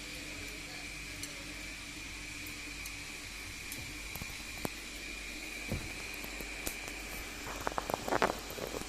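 A caique parrot's beak nibbling cooked corn: scattered sharp clicks, then a quick run of louder clicks near the end. Under it runs a steady background hum with a faint high whine.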